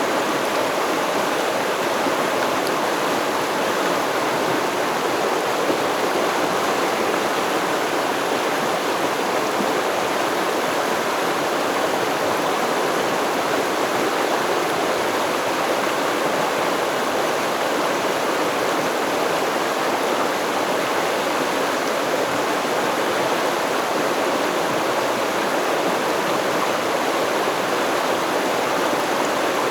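Flowing stream of river water, rushing steadily and evenly with no breaks.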